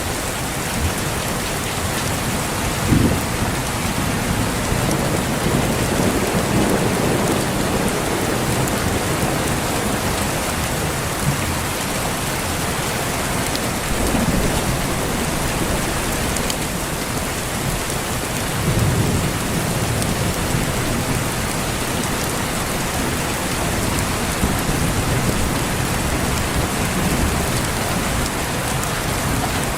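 Steady heavy rain with low thunder rumbling several times, sharpest about three seconds in.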